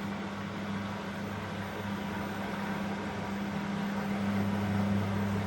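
Washing machine drain pump humming steadily as it pumps out the rinse water, over a wash of water noise; the hum grows a little fuller about four seconds in.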